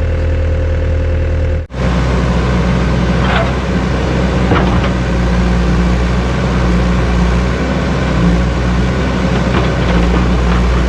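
Diesel excavator engine running steadily, with a few light knocks. The sound drops out for a moment about a second and a half in, then the engine carries on.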